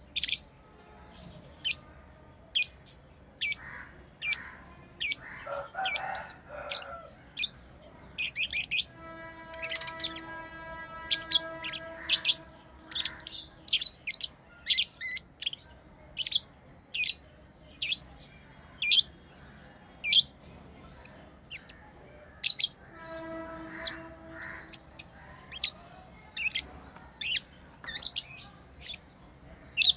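Lovebirds chirping: a continuous run of short, sharp, high-pitched chirps, about one or two a second. A fainter steady tone with overtones sounds underneath twice, in the first half and again later.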